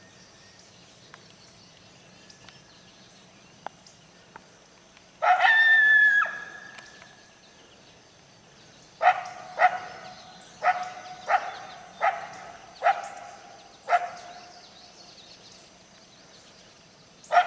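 Coyote calling: a bark drawn out into a short held howl about five seconds in, then seven sharp barks in quick succession a few seconds later, and another call starting at the very end.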